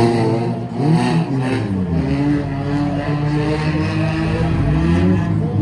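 Banger race cars' engines revving, several at once: pitches climb and fall away repeatedly while one engine holds steady revs through the middle.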